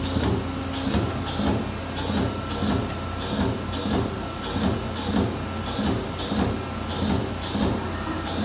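Amada Vipros 357 CNC turret punch press running, with a regular rhythm of punching strokes about two a second over a steady machine hum.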